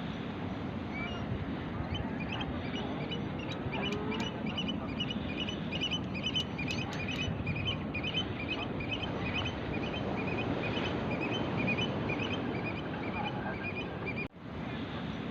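Birds calling in quick, short repeated notes over a steady rushing background noise, which drops out for an instant near the end.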